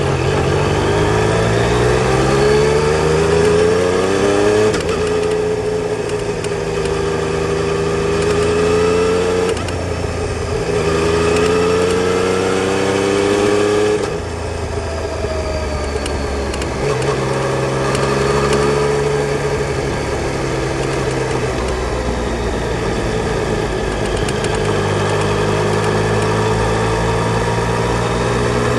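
Yamaha Tracer 900 GT's three-cylinder engine under way. The pitch climbs for the first five seconds, then drops and climbs again several times as it changes gear, and runs steadier through the second half.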